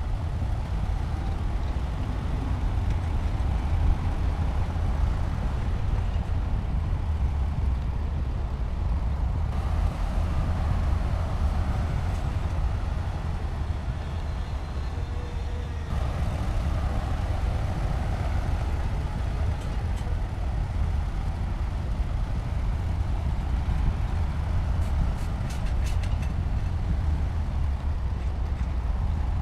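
Heavy diesel engine of earthmoving machinery running steadily with a deep low rumble, with a few faint ticks near the end.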